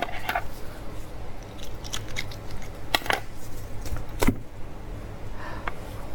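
A few sharp clicks and knocks of eating utensils against beef marrow bones, the loudest about three and four seconds in, over a faint low hum.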